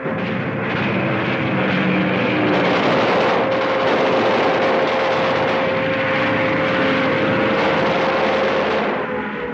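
A propeller plane's engine droning overhead during an air raid, dense and steady. A single steady tone is held over it until near the end.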